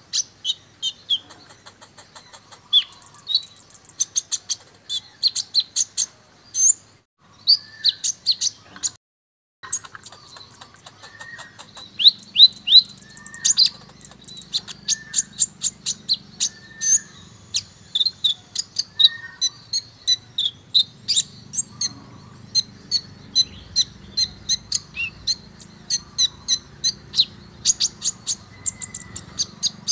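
Brown-throated sunbird (kolibri ninja) singing: rapid series of high, sharp chirps and short trills, with a brief cut about nine seconds in.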